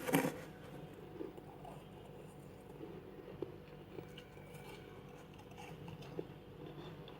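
Freezer frost bitten with one sharp crunch right at the start, followed by faint, scattered crunches and clicks of chewing.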